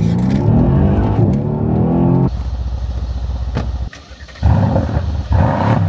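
Mercedes-AMG C63 S twin-turbo V8 accelerating hard, its note climbing in pitch for about two seconds and then dropping abruptly. After a brief dip in level near four seconds it pulls loudly again.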